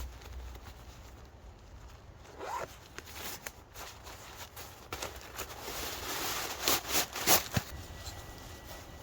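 Short rasping strokes and rustling from gear being handled. They come in a dense run in the second half, loudest about seven seconds in.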